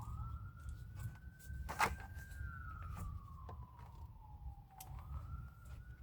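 A distant siren wailing: it rises in pitch at the start, falls slowly for about five seconds, then rises again near the end. A single metallic clank comes about two seconds in, over a steady low rumble.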